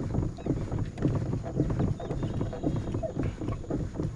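Water splashing and sloshing around a small fishing boat, irregular and choppy, with wind buffeting the microphone.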